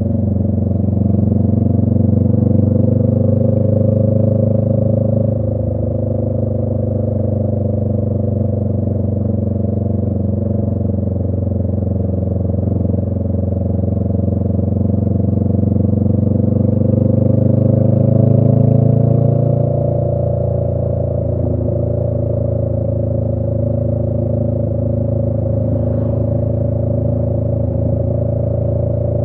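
Honda Rebel 500 motorcycle engine, a parallel twin, running through a Radiant Cycles Shorty GP aftermarket exhaust while cruising. The exhaust note climbs steadily for a few seconds, then drops sharply about two-thirds of the way through and settles lower.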